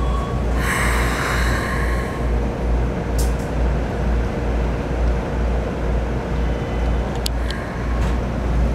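Cabin noise inside a Keikyu New 1000 series electric train car: a steady low rumble with a faint hum, and a burst of air hiss about a second in, followed by a few light clicks.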